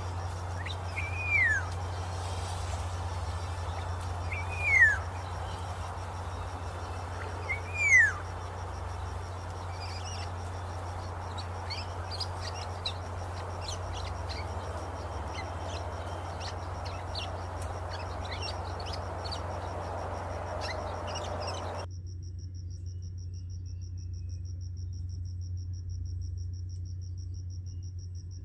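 Three loud bird calls in the first eight seconds, each sliding down in pitch, over a steady high pulsing trill and a low hum. A background hiss cuts off suddenly about 22 seconds in, leaving the trill and hum.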